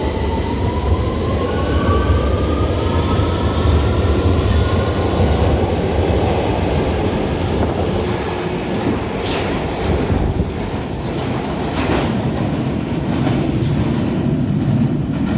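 Electric train pulling away, its traction motors giving a rising whine over the first few seconds above a loud, steady rumble of wheels on rails. There are a couple of sharp clacks about nine and twelve seconds in.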